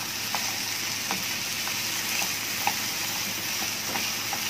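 Small-diced potatoes frying in oil in a frying pan: a steady sizzle with a few faint ticks scattered through it.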